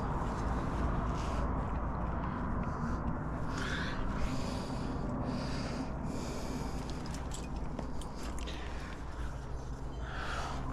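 Wind rumbling on the microphone, with a climber's heavy snorting breaths about a third of the way in and again near the end, and light clicks and scrapes of climbing gear on rock.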